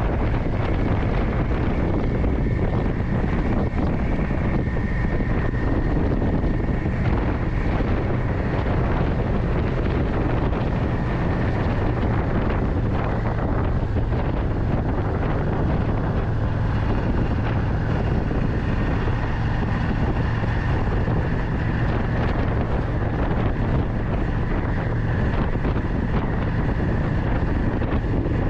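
Motorcycle engine running at a steady cruise under heavy wind rushing over the microphone.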